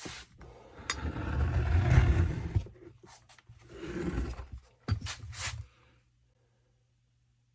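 Stihl FS 45 string trimmer's two-stroke engine being pull-started. It catches in three rough bursts, the first the longest, each dying away, then stops about six seconds in. This is typical of an engine flooded by a leaking carburettor needle and seat, which is what the owner takes it for.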